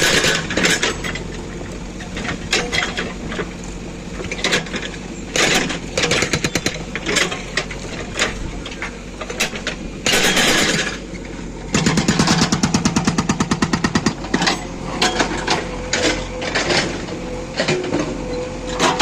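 Hydraulic rock breaker on a JCB 3DX backhoe loader hammering stone in runs of rapid blows, over a steadily running diesel engine. A loud noisy burst comes about ten seconds in.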